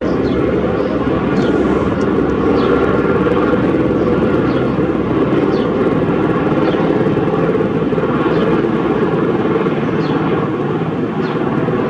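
Aérospatiale AS350 BA Écureuil single-turbine helicopter running, a loud, steady rotor and turbine rumble that holds level throughout.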